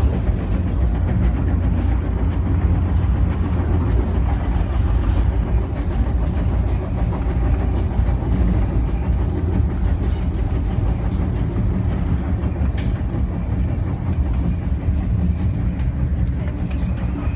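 Caltrain commuter train heard from on board while running: a steady low rumble of wheels on the rails with scattered clicks from rail joints, and one sharper click about thirteen seconds in.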